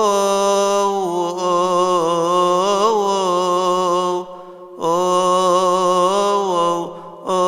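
A deacon's solo male voice chanting a Coptic Orthodox hymn in long, held melismatic notes with slow ornamental turns. He breaks off for a breath a little past halfway and again near the end.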